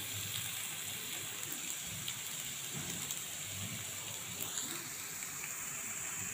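Diced potatoes frying in hot oil in an iron kadai: a steady sizzling hiss.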